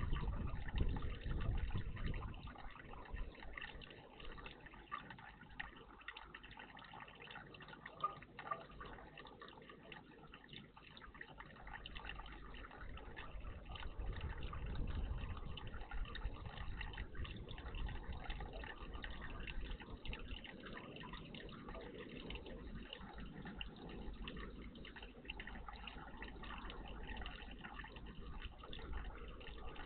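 Water trickling, splashing and dripping in a garden bird bath.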